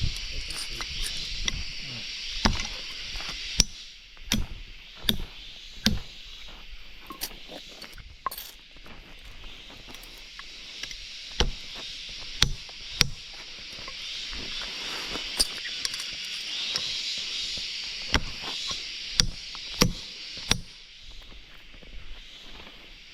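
A steady high insect drone, with irregular sharp knocks and clicks about once or twice a second.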